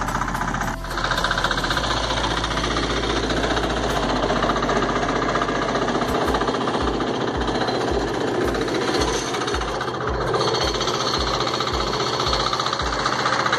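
Engine of a homemade ZMT 4x4 mini tractor running steadily under load while it pulls a plough through the soil.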